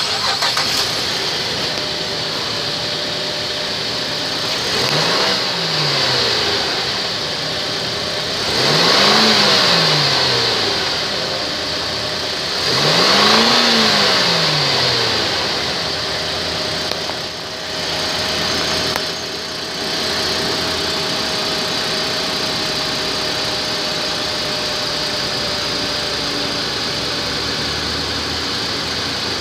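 2008 GMC Acadia's 3.6-litre V6 VVT engine running at idle, revved briefly three times about five, nine and thirteen seconds in, each rev rising and falling back to idle, then idling steadily.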